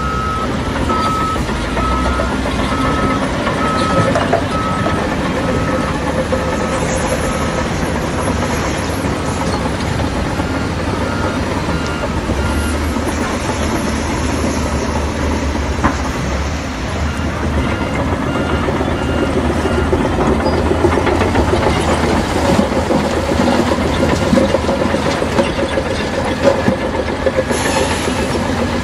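Crawler bulldozer working, its diesel engine running steadily under the clanking of its steel tracks. Trains of short, evenly spaced beeps come and go three times.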